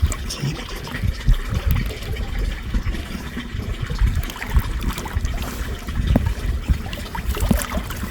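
Water trickling in a drainage ditch, with irregular low bumps on the microphone.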